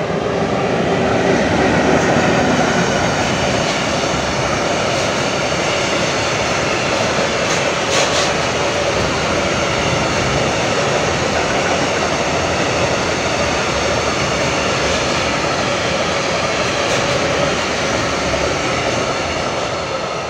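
Freight train of tank wagons hauled by an ET22 electric locomotive rolling past: a steady rumble and hiss of steel wheels on the rails, loudest about two seconds in as the locomotive goes by, with a single sharp click about eight seconds in.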